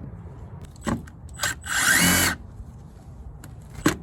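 Cordless drill-driver spinning for under a second, backing a screw out of a plastic interior trim piece. Sharp clicks come just before and near the end.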